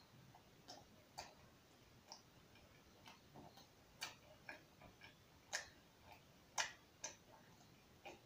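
Quiet, irregular wet clicks and lip smacks of a person chewing food with the mouth, about one or two a second, a few of them sharper than the rest.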